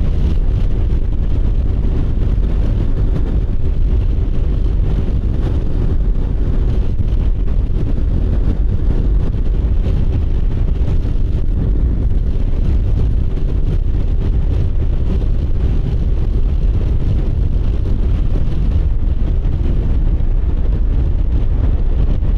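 Motorcycle riding at a steady speed: the engine runs with an even drone under heavy wind rumble buffeting the microphone.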